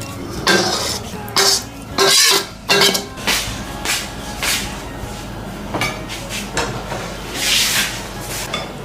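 Kitchen dishes and utensils clattering: a run of sharp clinks and knocks of crockery and metal, busiest in the first three seconds.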